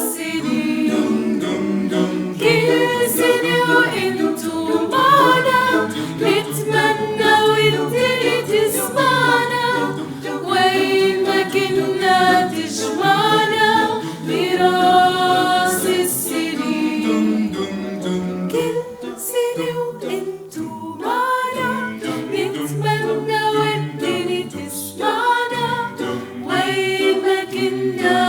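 Choir singing a cappella: several voices in harmony with no instruments, the phrases running on without a break.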